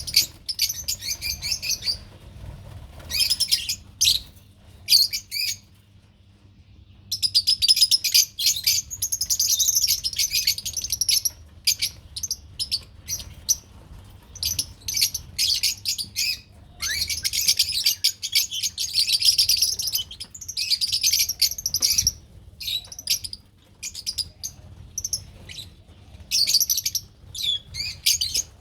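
Lovebirds chirping in rapid, high-pitched runs of calls that come in bursts, with a short quiet gap about six seconds in.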